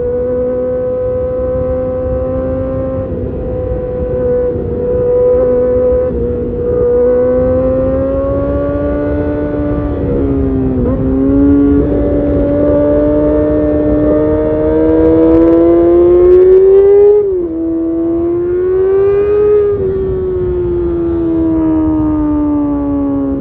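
2012 Kawasaki Ninja ZX-6R inline-four running at high revs through an Arrow Competition titanium race exhaust, its pitch slowly climbing under acceleration. Quick gear changes break the pitch about eleven and seventeen seconds in, and the revs fall away steadily near the end as the bike eases off.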